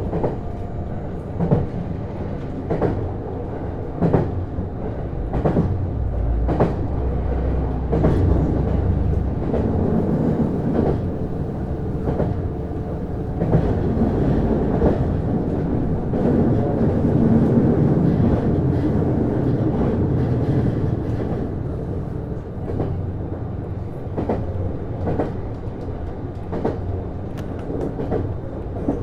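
Interior running sound of a JR East HB-E210 series hybrid diesel-electric train at speed: a steady low hum with wheels clacking over rail joints, about one click every 1.3 seconds in the first half and less regularly later.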